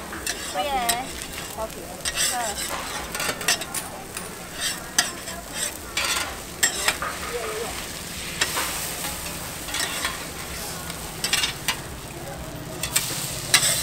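Oyster omelette frying on a flat iron griddle: egg and oysters sizzling while two metal spatulas scrape and clack against the griddle at irregular intervals.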